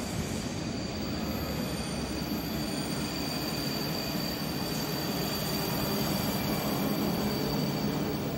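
Train hauled by an Alsthom 1600-class electric locomotive running along the rails: a steady rumble with a thin, steady high whine, growing a little louder in the second half.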